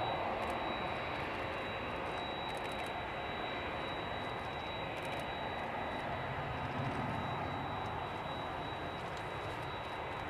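Jet airliner engines running, a steady rumble that eases off slightly over the few seconds.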